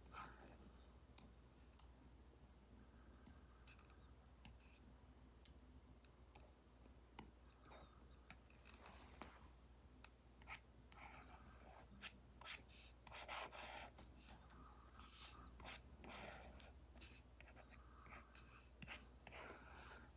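Faint tapping and scratchy stroking of a stylus tip on an iPad's matte paper-like screen protector, as an Apple Pencil Pro draws. Scattered sharp ticks come throughout, and the strokes grow busier in the middle.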